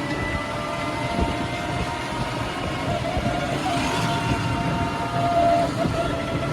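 A motor engine running steadily: a low rumble with steady humming tones above it.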